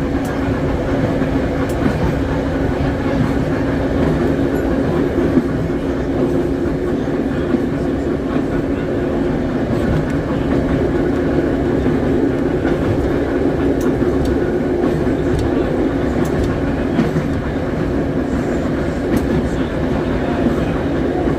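Philadelphia Suburban Transportation Co. trolley car #76 running along the track: a steady rumble of steel wheels on rail under a constant hum, with scattered light clicks.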